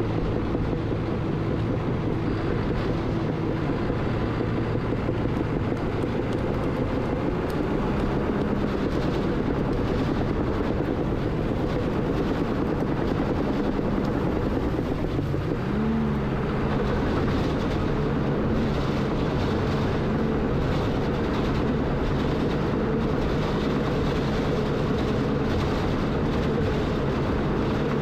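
Diesel engine of earthmoving equipment running steadily under work, its note rising briefly about halfway through.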